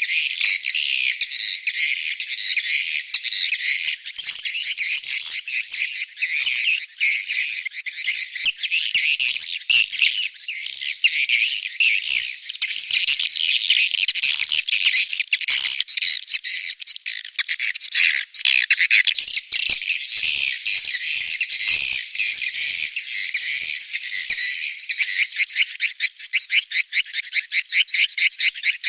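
Swiftlet calls as played to lure birds into a swiftlet house, the breeding or mating call: a dense, unbroken chatter of high, twittering chirps. Near the end it turns into a fast, even run of clicking pulses.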